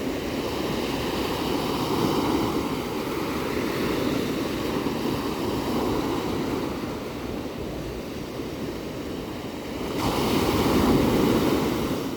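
Ocean surf: a continuous rushing wash of waves that swells and ebbs. A louder surge comes in abruptly about ten seconds in, then falls away near the end.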